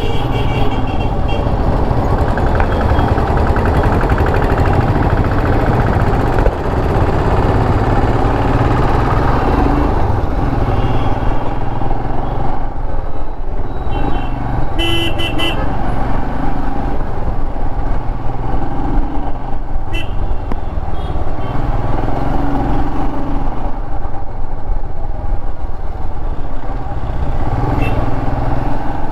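Royal Enfield Himalayan's single-cylinder engine running steadily under the rider in stop-and-go city traffic, with a constant road-traffic noise. Vehicle horns toot briefly at the start and again about 12 and 15 seconds in.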